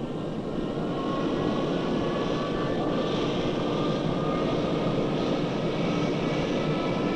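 Concorde 002's Olympus 593 turbojet engines running on the ground, a steady rush of jet noise with a whine whose pitch rises slowly.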